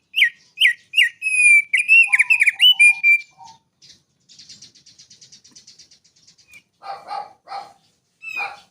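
Small songbird singing: a quick run of loud, clear whistled notes, each slurring downward, then a quieter, rapid high trill, and a few harsher chattering notes near the end.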